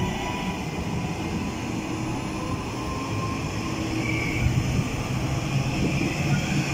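TransPennine Express Class 397 electric multiple unit running past along the platform: a steady rumble of wheels on rail, growing a little louder near the end.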